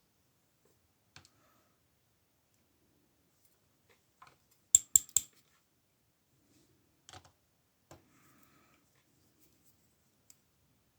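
Small metal lock parts and tools clicking and tapping against each other as the disassembled padlock cylinder is handled. There are scattered faint clicks, with three sharp clicks in quick succession about five seconds in.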